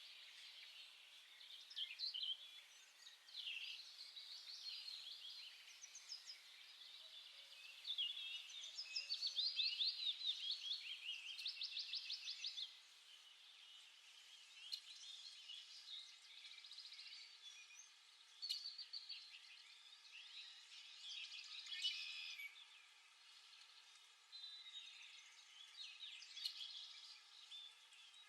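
Several small songbirds chirping and calling back and forth in short bursts, with a louder rapid trill of quickly repeated notes about a third of the way in.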